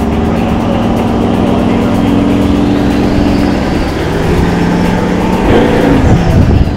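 V8 engine of a 4WD running at steady revs while crawling along a dirt track, the pitch dropping about three and a half seconds in, then revving down and back up near the end.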